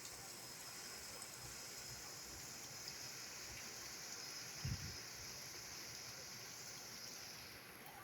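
Heavy rain falling, a steady hiss that eases slightly near the end, with a single brief low thump a little past the middle.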